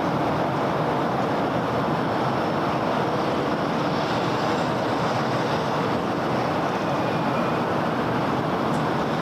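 Steady city road traffic: engines and tyres of many vehicles blending into one even wash of noise, with no single vehicle standing out.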